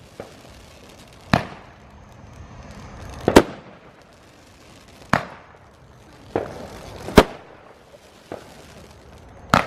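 Fireworks exploding: five loud bangs about two seconds apart, with a few fainter pops in between, each trailing off briefly.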